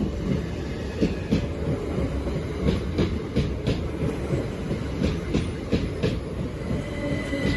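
Southern multiple-unit passenger train running past close alongside the platform: a loud low rumble with repeated knocks of the wheels over rail joints. A high-pitched wheel or brake squeal begins near the end.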